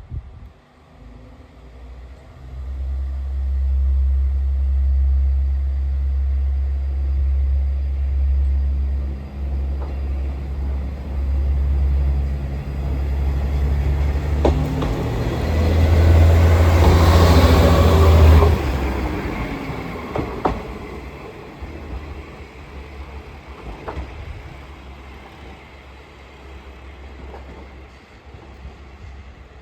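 JR Kyushu KiHa 40 diesel railcar's engine running under power as the train pulls out, growing louder to a peak about two-thirds of the way through, then fading as it moves away. A few sharp clacks come from the wheels along the way.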